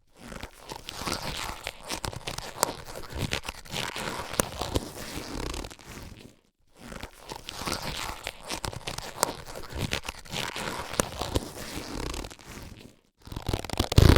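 Latex surgical gloves being handled: rubbery rubbing and crinkling dotted with sharp little clicks, in three stretches split by two short pauses, with a louder burst near the end.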